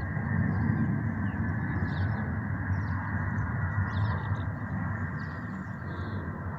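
Steady low rumble of an airliner on its landing approach, easing slightly toward the end, with small birds chirping faintly over it.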